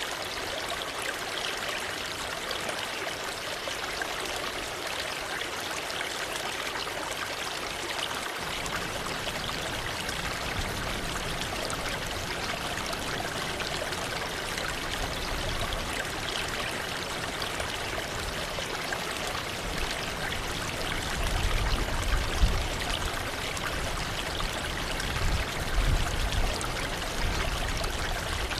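Waterfall water rushing and splashing in a steady, even hiss, with two low rumbling swells near the end.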